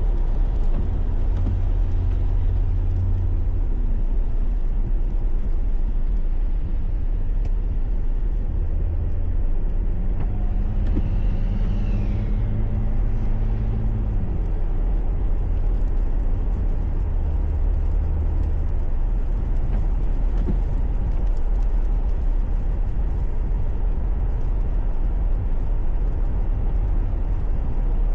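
Car driving noise picked up by a dashcam: a steady low road rumble, with engine hum that swells and fades a few times. About eleven seconds in, a brief high whine slides down in pitch.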